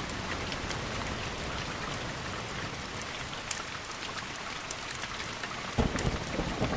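Steady rainfall with scattered sharp drop ticks. Near the end a deep rumble of thunder breaks in suddenly and keeps rolling.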